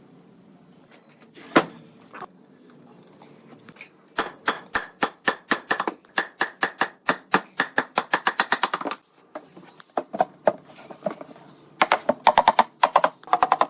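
Rapid taps of a striking tool on wood: a single sharp knock, then a run of strikes that quickens from about three to ten a second, and after a short pause a second fast run near the end.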